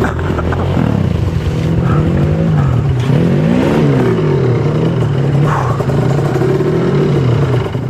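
Off-road trail motorcycle engine revving up and down again and again as the throttle is worked through difficult terrain, the pitch climbing highest a little before the middle.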